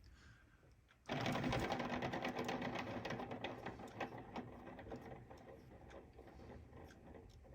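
Magnet-fitted finger spinners spun up about a second in, their cheap ball bearings rattling and buzzing in a fast chatter that slowly fades as the spinners slow. The rattle is the sound of very unhappy, low-quality bearings being pulled in many directions by the magnets.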